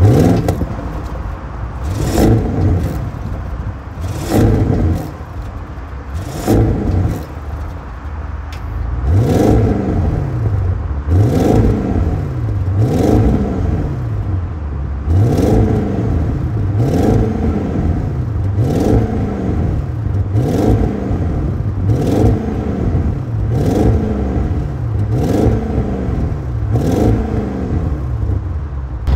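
A 2023 Audi RS7's 4.0-litre twin-turbo V8 is revved over and over through its RS sport exhaust. It starts with a few slower revs, then quick throttle blips about once a second, each climbing and dropping back toward idle.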